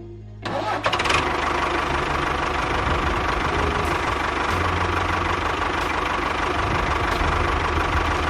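A small machine's engine starts about half a second in and runs steadily.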